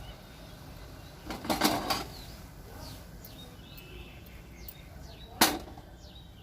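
Small birds chirping in the background, with a brief, loud, noisy clatter about a second and a half in and a single sharp knock about five and a half seconds in.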